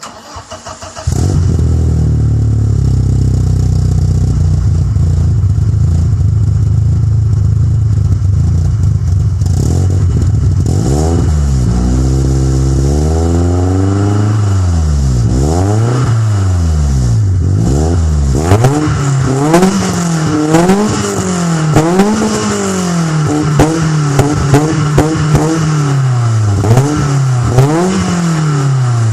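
BMW E30 318is four-cylinder engine starting about a second in and idling through a straight-through stainless steel rear muffler, then revved up and down repeatedly in the second half, with sharp crackles as it revs. At idle the exhaust sounds as if it is blowing, which the owner puts down to the phone's microphone.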